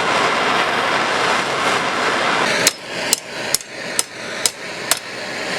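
A torch hissing steadily, then a hammer striking a steel exhaust pipe six times, about two blows a second, each with a short metallic ring.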